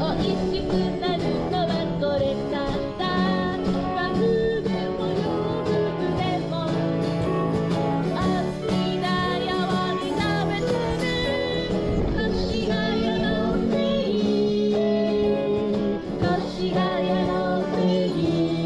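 Live singing with acoustic guitar accompaniment, a pop song played without a break.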